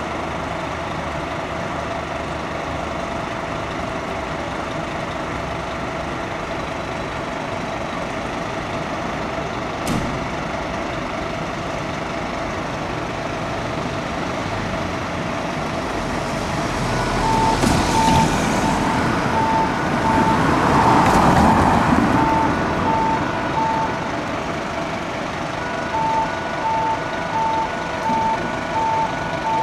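Fire engine running, swelling louder for a few seconds about halfway through as it moves off. A regular electronic beeping, about two beeps a second, sounds over it from about halfway and starts again near the end.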